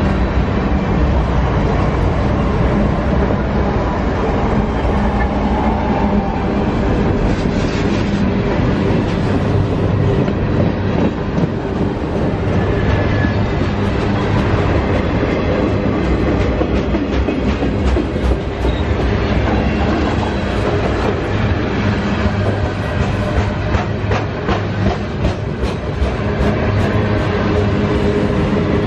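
A mixed freight train rolling past close by: a steady heavy rumble of steel wheels on rail, with irregular clicking as the wheels pass over rail joints and the cars rattle.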